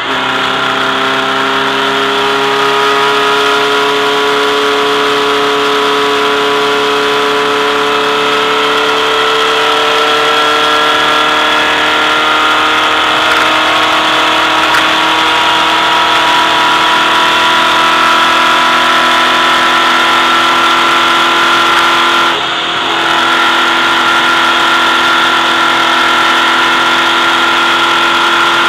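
VW race car's air-cooled flat-four engine running hard at high revs, heard on board, its pitch climbing slowly as the car pulls along the straight. About 22 seconds in the engine note briefly drops and dips in level, then picks up and keeps climbing.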